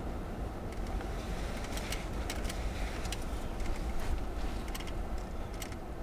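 Car's engine and road rumble heard from inside the cabin as it creeps along at low speed, a steady low drone with a few faint scattered clicks.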